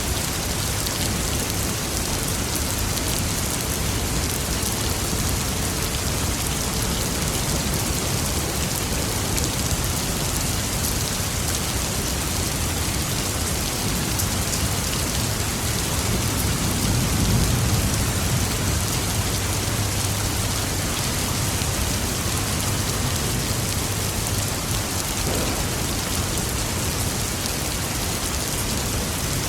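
Steady heavy rain falling, an even dense hiss. About halfway through, a low rumble of distant thunder swells and fades over a few seconds.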